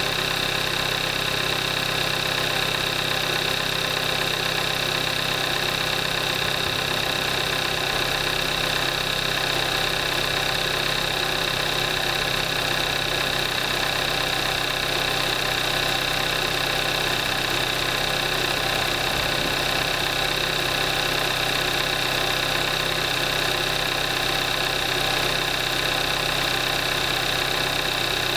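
2014 Kia Forte5 2.0 GDI direct-injection four-cylinder engine idling steadily, at 38,300 miles on synthetic 5W-20 oil.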